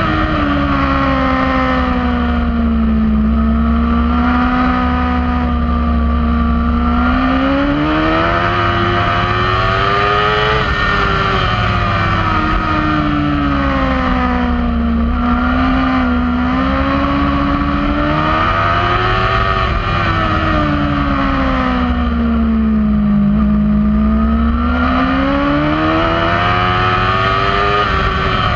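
Kawasaki racing superbike's engine heard onboard at race speed, its pitch falling three times as the revs drop off and climbing again as it pulls hard between them.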